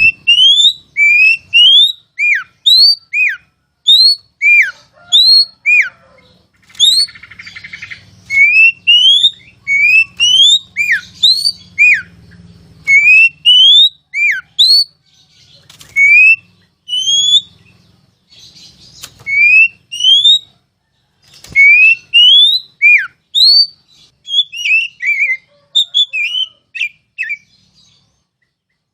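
Oriental magpie-robin (kacer) singing loud, clear whistled notes, each a quick rising or falling slur, about two a second with short pauses, breaking into a faster run of falling notes near the end.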